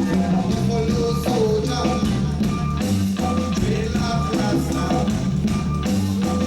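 A live reggae band playing, with a steady bass line under sustained melody notes and regular drum hits.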